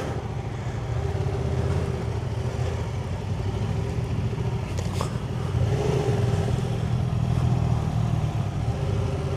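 Motorcycle engine running at steady revs while riding, holding a nearly constant pitch with no sharp revving.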